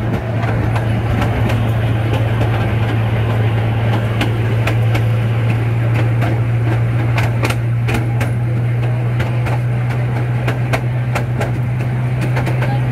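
Small amusement-park train running: a steady low hum under frequent irregular clicks and clacks from the wheels on the track and the rattling open wooden passenger cars.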